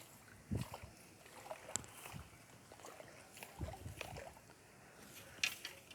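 Faint sloshing of river water with a few light scattered knocks and rustles, as toys are handled and pulled from the shallows.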